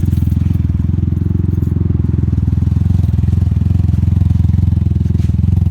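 Can-Am Ryker 900 ACE three-cylinder engine idling steadily through its stock exhaust, which has been modified by drilling holes into it.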